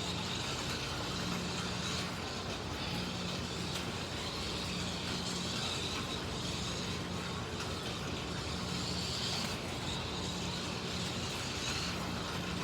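Slot cars racing on a track, MR Slotcar Cunningham Corvettes and a Scalextric Mercedes 300 SLR: small electric motors whining with gear and tyre noise, the high whine swelling and fading as the cars come past.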